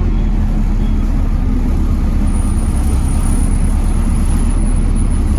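Volvo D7C 7.3-litre diesel engine of a Volvo B7TL double-decker bus running steadily with a low rumble. A faint high whine comes in about two seconds in.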